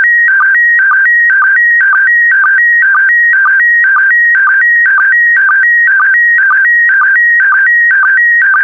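SSTV image transmission in PD120 mode: a loud warbling signal of tones around 1.5 to 2 kHz, repeating about twice a second, each scan line marked by a short lower sync blip. It is the picture being sent line by line as audio for a decoder.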